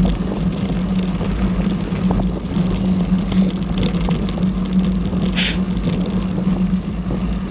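Mountain bike riding on a forest trail: a steady rumble of tyres and riding noise with wind on the camera microphone. A brief high-pitched sound comes about five seconds in.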